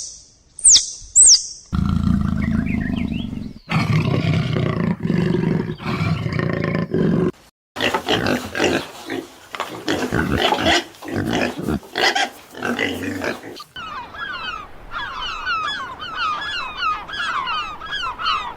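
A run of different animal calls: a few high gliding whistles, then deep drawn-out calls, then harsh pulsed calls, and near the end rapid repeated chirps.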